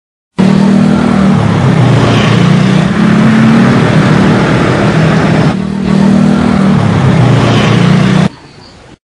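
Motor scooter engine running loud, its pitch revving up and down, cutting off suddenly near the end.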